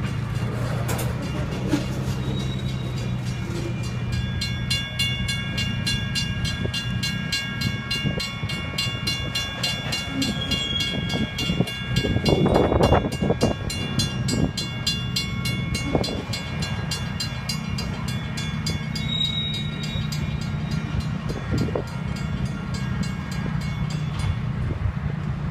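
A train rolling past at a railroad crossing: a steady low rumble of the rail cars with a rapid, even high ticking, and a louder clatter about halfway through. The ticking stops shortly before the end.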